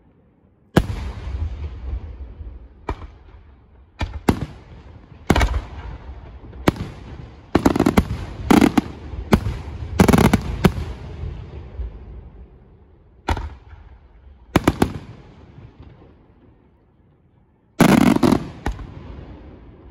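Aerial firework shells bursting overhead in a string of sharp bangs, each followed by a booming, rolling echo. The bursts come thickest in the middle and end with a last loud cluster near the end.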